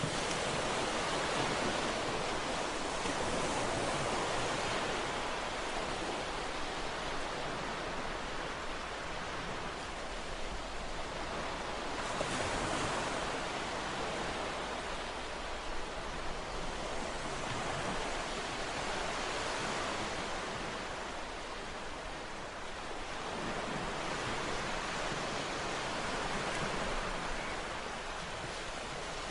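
Ocean waves breaking and washing on a shore, a continuous rushing surf that swells and eases every several seconds.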